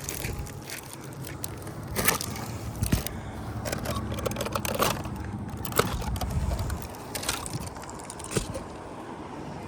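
Utility knife cutting through a sheet of roof-covering material, with irregular crackling and crinkling strokes as the blade drags and the sheet is handled.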